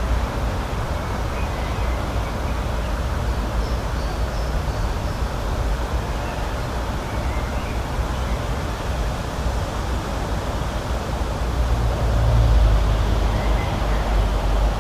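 Steady rushing outdoor noise with a deep, wavering rumble underneath, and a few faint, short bird chirps scattered through it.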